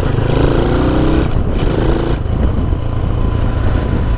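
Honda C90's small single-cylinder four-stroke engine running as the bike rides along.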